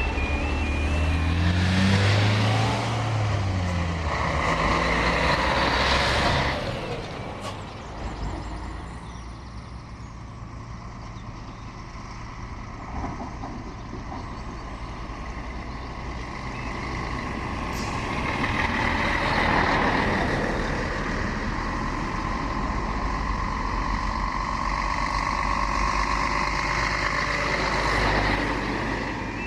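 Railway trains: a diesel engine running loudly with its note shifting, dropping away after about six seconds. A train then passes, its noise swelling to a peak about twenty seconds in and fading.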